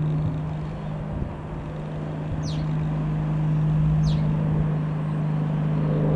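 Single-engine piston aircraft droning steadily overhead, its low propeller hum swelling a little as it passes. A bird gives a short falling call twice.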